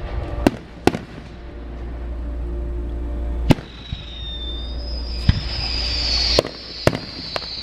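Aerial fireworks going off: several sharp bangs at irregular intervals, with a long high whistle that slowly falls in pitch over the last few seconds.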